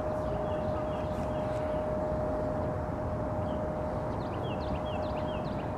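Steady outdoor background rumble with a constant mid-pitched hum. A small bird calls twice in quick runs of short, falling chirps, about half a second in and again about four seconds in.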